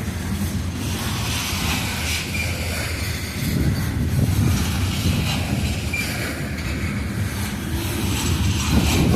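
Coal train's freight cars rolling past: a steady low rumble of steel wheels on the rails that swells slightly about a third of the way in.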